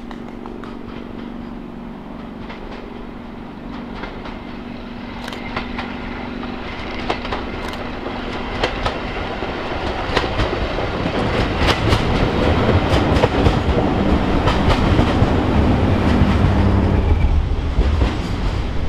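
Diesel train approaching and passing close by: a steady engine drone that grows steadily louder, joined about halfway through by wheels clicking over the rail joints, loudest in the last few seconds as it goes by.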